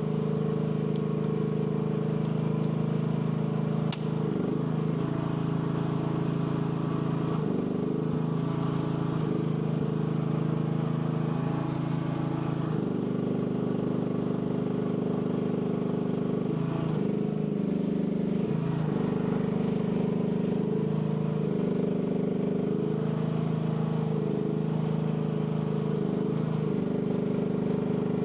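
AGT L12 mini excavator's engine running steadily, its pitch sagging briefly now and then and recovering.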